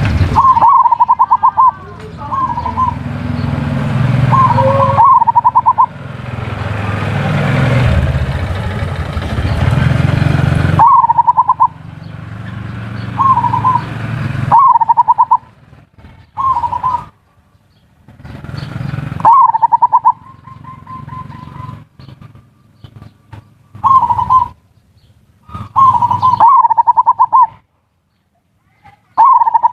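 Zebra dove (perkutut) cooing: about a dozen short calls, each a quick run of pulses, some in close pairs. For roughly the first half they sit over a steady background noise; after that they come between quiet gaps.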